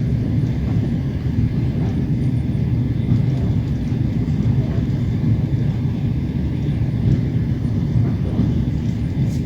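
Steady rumble of a moving train, heard from inside the carriage: wheels running on the track.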